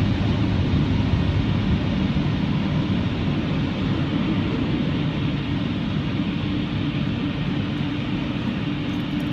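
Automatic car wash air dryers blowing: a steady, loud roar, with a steady hum coming in about halfway through, as the drying stage finishes.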